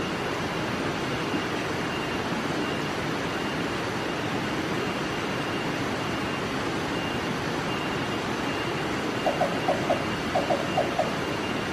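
Steady rushing background hiss, and near the end three short runs of quick, low 'tuk' notes, typical of a black-banded barbet calling.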